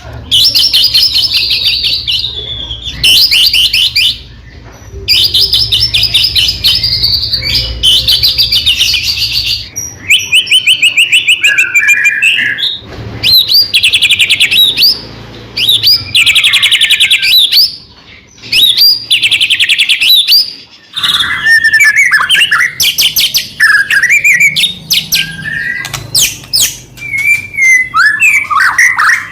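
White-rumped shama (murai batu) singing loudly: fast rattling trills of rapidly repeated notes alternating with clear whistled phrases and pitch glides, in bursts of song separated by short pauses.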